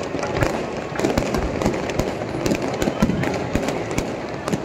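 Fireworks going off: a rapid, irregular string of sharp cracks and pops.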